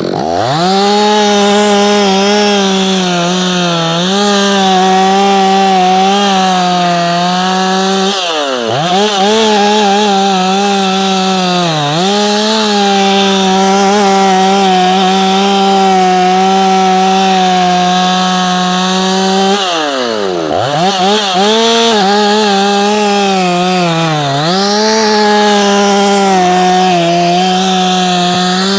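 Freshly repaired and ported Efco 165 two-stroke chainsaw running at full throttle while cutting wood. Its pitch sags briefly under load a few times, and twice it falls away steeply as the throttle is let off, then revs straight back up.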